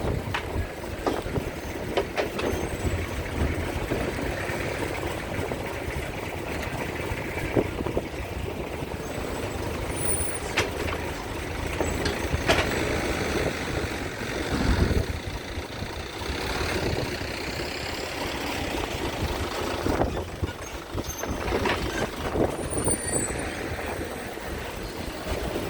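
Heavy trucks moving about a ferry port: diesel engines running, with air-brake hisses and scattered knocks.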